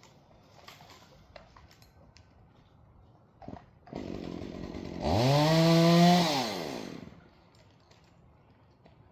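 Chainsaw engine revved once: its pitch climbs fast, holds about a second, then falls away as the throttle is let off. A few faint clicks and knocks come before it.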